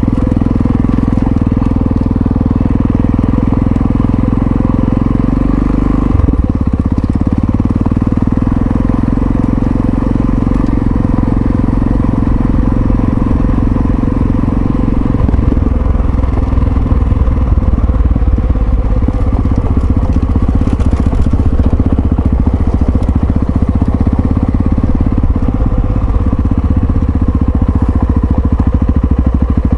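Yamaha XT660Z Ténéré's single-cylinder engine running as the motorcycle rides along. Its note changes about six seconds in and again about halfway through.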